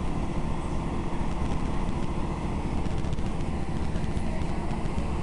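Passenger train in motion heard from inside the carriage: a steady, mostly low-pitched running noise.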